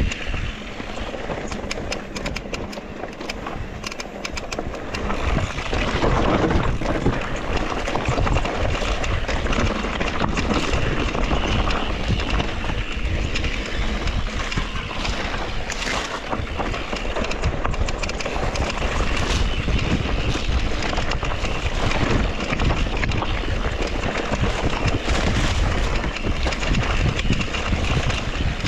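Wind rushing over the microphone of a mountain bike ride on a dirt trail, with tyre noise and the bike rattling over rough ground. Light rapid clicking in the first few seconds, then louder from about six seconds in.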